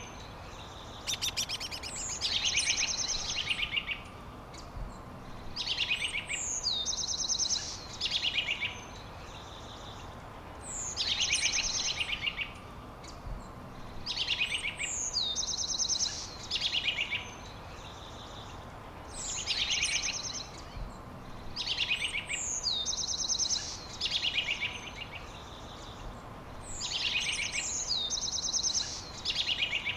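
A songbird repeating the same short, high song about every four to five seconds, seven times: each phrase a fast trill with a downward-sliding note. A steady background hiss runs beneath.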